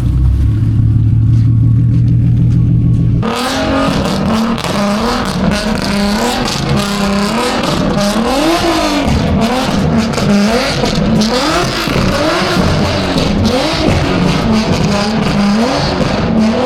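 A car engine hums steadily at idle, then about three seconds in the sound changes abruptly. The engine revs up and down over and over in quick swells under a loud hiss, as a car drifts.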